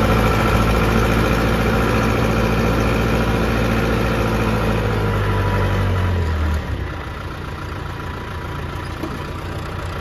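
John Deere 210C backhoe's diesel engine running steadily. About six and a half seconds in, its deep engine note drops off abruptly and only a quieter, rougher machine noise is left.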